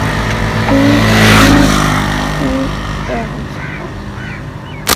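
A motor vehicle's engine running close by, loudest about a second and a half in and then fading away, with faint voices under it and a sharp click near the end.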